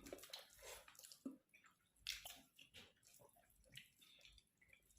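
Faint wet eating sounds: chewing and mouth smacks with scattered soft clicks, close to the microphone.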